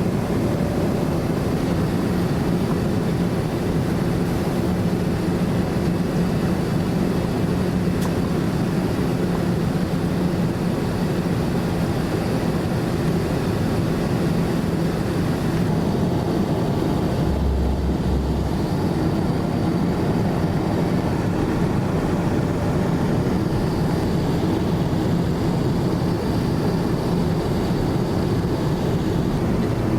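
Steady cabin noise inside a Boeing 787-9 airliner in descent: an even rush of engine and airflow noise with a low steady hum.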